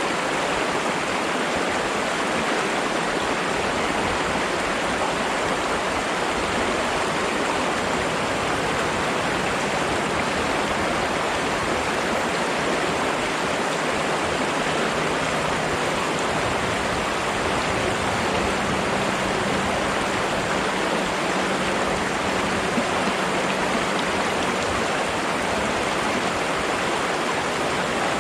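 Flowing water rushing steadily, an even, unbroken wash of sound with no pauses or changes.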